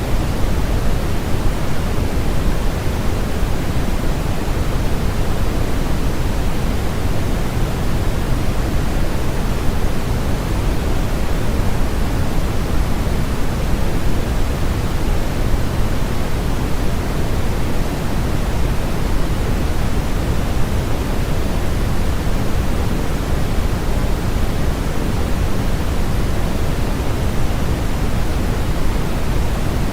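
Steady electronically generated noise of the kind used as a sleep and masking aid, sold as white noise: an even, unchanging hiss, heavier in the low end than the high.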